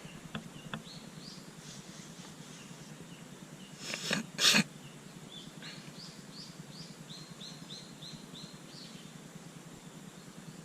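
Birds calling: scattered high chirps, then a quick run of about eight short, evenly spaced chirps late on. About four seconds in there is a brief, loud burst of noise, in two parts.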